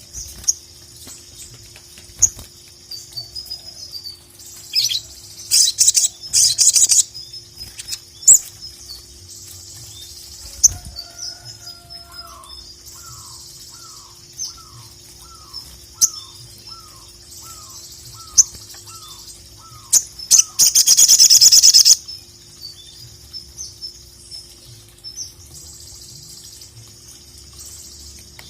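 Sogok ontong (sogon) sunbird singing: rapid high-pitched chirps and short trills, with loud buzzy trills a few seconds in and a long loud one about two-thirds of the way through. A slower series of lower, down-slurred notes repeats about twice a second in the middle. A faint steady hum runs underneath.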